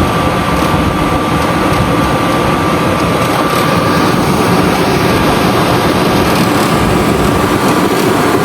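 RV furnace blower fan running steadily, a loud even rush with a faint high whine, before the burner has lit. The fan's airflow is what closes the newly replaced sail switch so the furnace can ignite.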